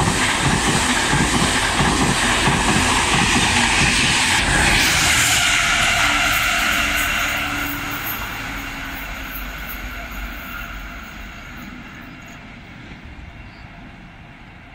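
Iarnród Éireann InterCity train hauled by a 201 class diesel locomotive running through the station: a loud rumble of wheels on rail with irregular clatter and a rising hiss as the coaches pass close, then a steadily fading rumble as the train pulls away.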